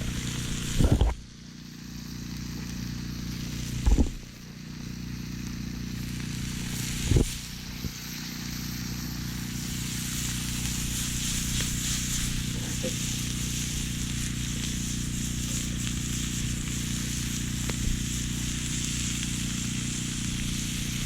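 Chopped vegetables sautéing in melted butter in a cast-iron skillet over a campfire: a steady sizzle that grows louder after the first several seconds and then holds. Three dull thumps come in the first several seconds.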